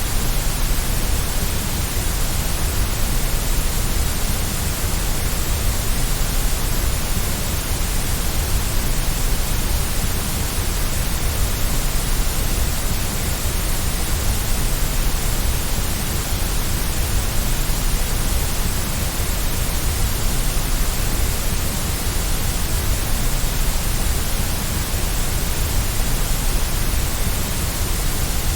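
Steady white noise: an even, unchanging hiss with a low rumble under it.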